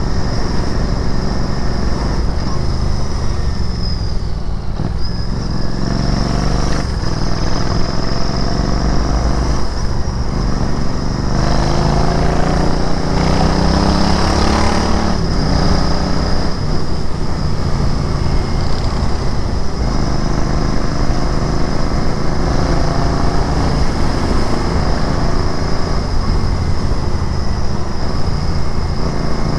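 Royal Enfield Interceptor 650's parallel-twin engine and exhaust running on the move, accelerating with rising revs about a fifth of the way in and again around the middle, with steady running between.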